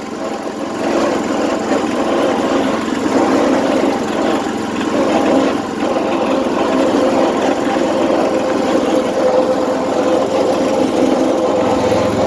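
A small tractor engine runs steadily with an even hum. The owner says it is not running well, running a little rich, and that its governor needs adjusting.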